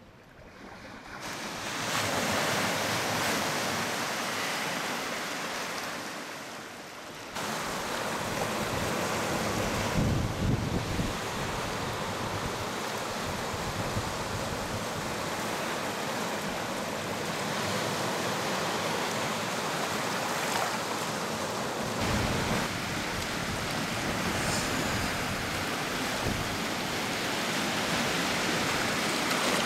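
Strong wind blowing: a steady rushing noise with no pitch, swelling up in the first couple of seconds and jumping suddenly louder about seven seconds in.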